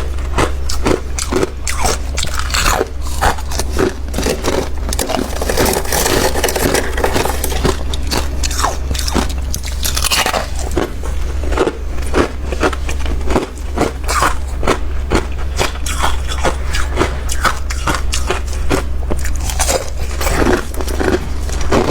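Close-miked biting and chewing of freezer frost: a dense, irregular run of crisp crunches, with a steady low hum underneath.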